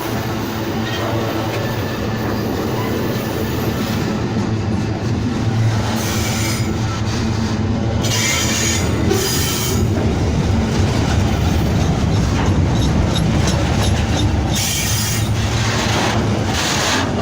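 Freight train rolling past with a steady loud rumble of wheels on rail. Brief high-pitched wheel squeals come and go several times.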